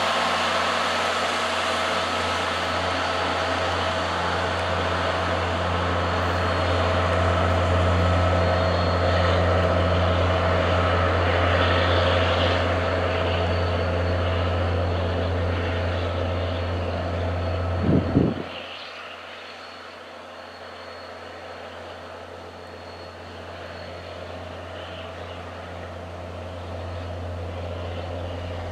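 Diesel locomotive engine running with a steady low drone. About two-thirds of the way through the sound drops suddenly, then slowly builds up again.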